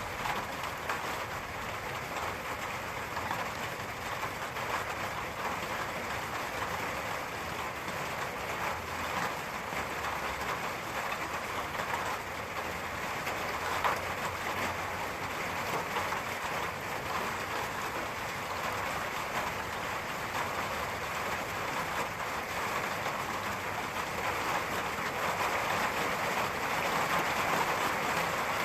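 Steady rain falling in an even hiss, growing a little louder near the end.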